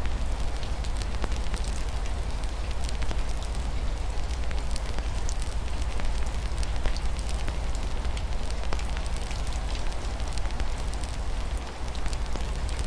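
Wood fire crackling steadily with frequent small pops and snaps, over a steady hiss of rain on a window and a low rumble underneath.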